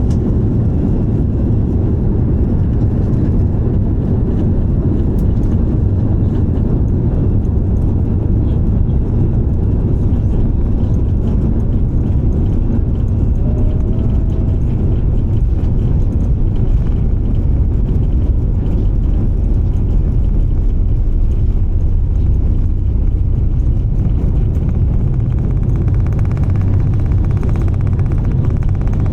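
Airbus A340-300's four jet engines at takeoff power: a steady, deep rumble.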